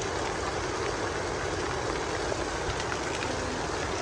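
Heavy rain falling steadily, a constant even hiss and patter.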